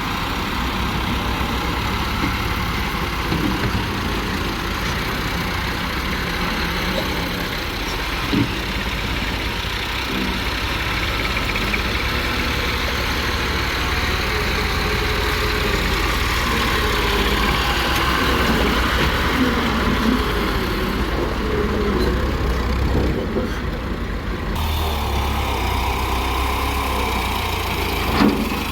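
Diesel engines of a JCB loader and a tractor running steadily through the loading work, with a single short knock about eight seconds in.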